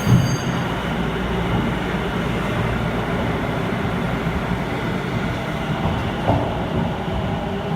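Echizen Railway MC7000 electric railcar running, heard from inside the car: a steady rumble of wheels on rail and the running gear, with a low knock just at the start.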